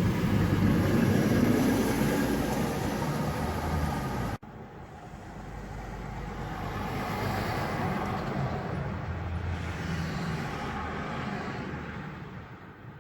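Heavy trucks driving past on a road. A loud, low engine sound cuts off abruptly about four seconds in; then another truck approaches, passes about halfway through and fades away.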